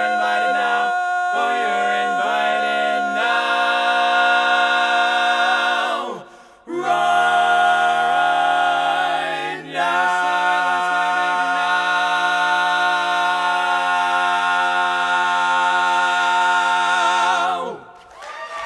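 An a cappella vocal group sings the closing chords of a song with no instruments: a few short chord changes, a brief break about six seconds in, then a long held final chord that cuts off near the end.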